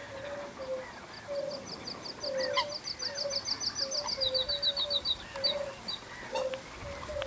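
Songbird singing a fast trill of high, short notes, about six a second, that drops to a lower pitch for the last few notes. Under it, short low calls repeat two or three times a second.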